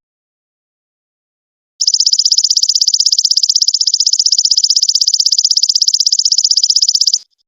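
Belalang emas ('golden locust') insect call: a rapid, even, high-pitched pulsing trill. It starts about two seconds in and stops abruptly shortly before the end.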